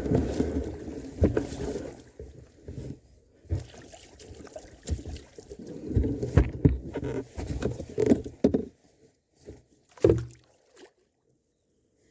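Irregular knocks, thumps and rustling from handling gear in and around a sailing canoe, cutting off suddenly to silence near the end.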